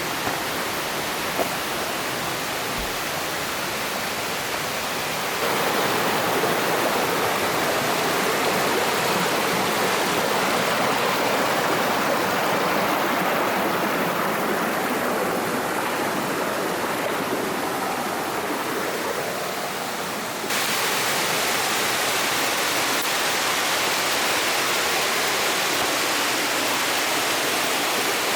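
Mountain stream water rushing and splashing over rocks in a steady roar. The sound jumps louder about five seconds in and shifts abruptly again near twenty seconds, as between cuts.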